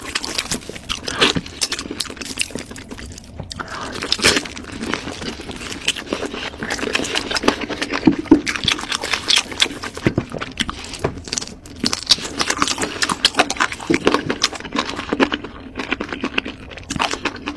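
Close-miked chewing and mouth sounds of someone eating roast chicken leg meat: a dense, irregular run of small clicks and smacks.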